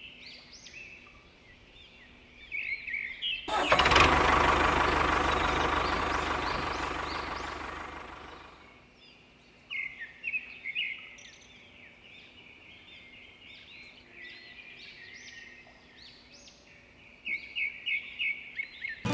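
Small birds chirping repeatedly. About three and a half seconds in, a loud rushing noise starts suddenly, with a faint steady hum in it, and fades away over about five seconds.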